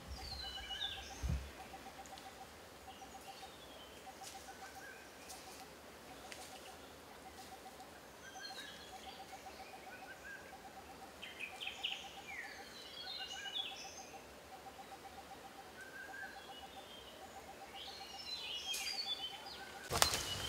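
Forest birdsong: scattered high chirps and short falling whistles from several birds, over a low pulsing call repeated about once a second. A dull thump about a second in, and a sudden burst of noise near the end.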